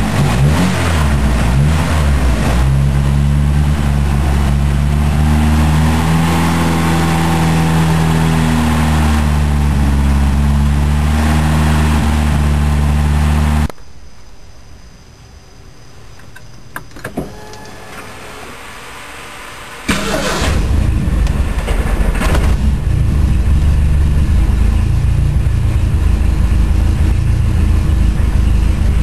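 The Pinto's turbocharged 2.3 L four-cylinder engine running steadily on its first start-up. It cuts out abruptly about fourteen seconds in, a couple of clicks follow in the quiet, and the engine is running again about six seconds later.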